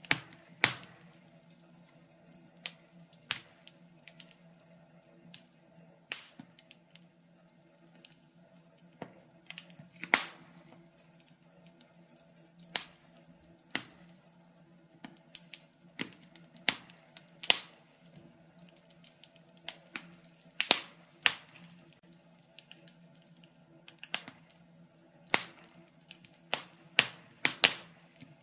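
Wood fire in a fireplace crackling: irregular sharp pops and snaps, some much louder than others and a few in quick pairs, over a steady low hum.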